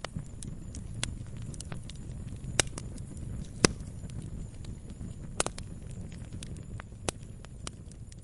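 Log fire burning: a low steady rumble of flames with irregular sharp crackles and pops, the loudest about three and a half seconds in.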